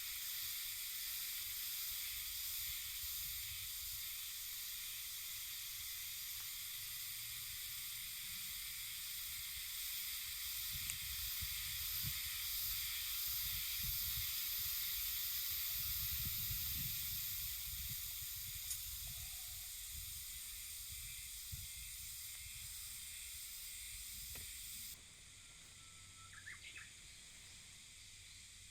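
Steady high-pitched hiss with a low rumble like wind on the microphone. The hiss drops away suddenly near the end, and a short rising chirp follows.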